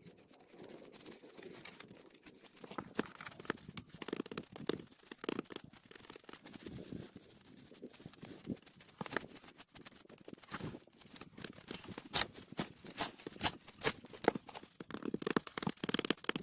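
Irregular knocks, scrapes and rustles of green-wood branches being handled and wedged against rock, busier toward the end.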